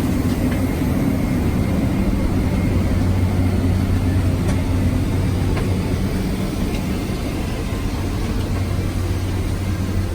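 Cabin noise of a Boeing 767-300ER taxiing with its engines at low power: a steady low hum with a few faint clicks, dropping in level right at the end.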